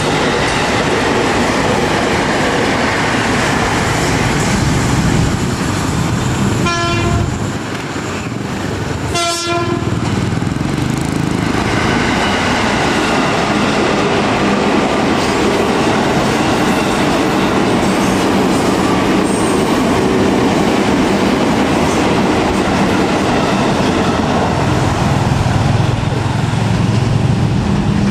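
Electric commuter trains running past on the line, a steady noise of wheels on rails, with two short horn blasts a couple of seconds apart about a third of the way in.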